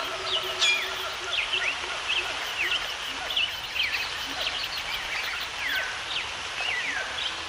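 Several birds chirping and calling in quick, overlapping short notes, many of them falling in pitch, over a steady background hiss.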